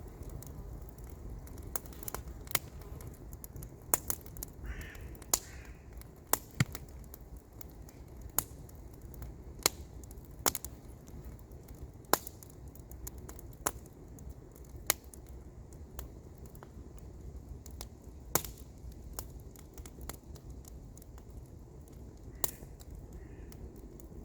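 Wood campfire crackling: sharp, irregular pops and snaps, roughly one a second, over a low steady rumble.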